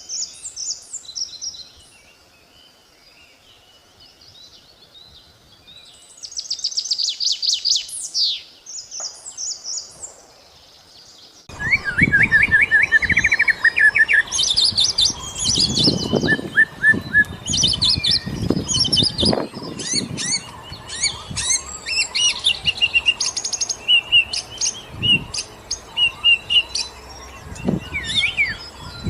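Birds chirping and trilling: sparse high chirps and a rapid trill at first, then an abrupt change about a third of the way in to a louder, busier stretch of repeated chirps over background noise with occasional low thumps.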